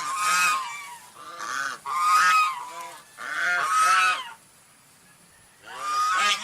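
Goose honking: a series of loud, harsh honks, with a pause of about a second before a last honk near the end.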